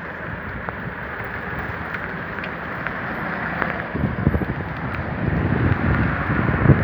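Heavy rain falling steadily, with wind buffeting the microphone in low gusts from about four seconds in.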